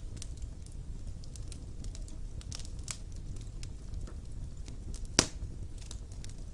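Wood fire burning in a stone fireplace: a steady low rumble with scattered crackles and one sharp pop a little after five seconds in.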